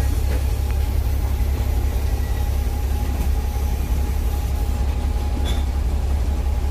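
Double-decker bus running, heard from inside the passenger cabin: a steady low drone with a faint steady whine above it.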